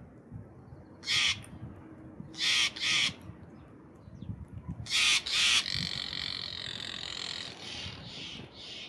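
Birds calling: five short, harsh calls in ones and pairs, then a longer held call.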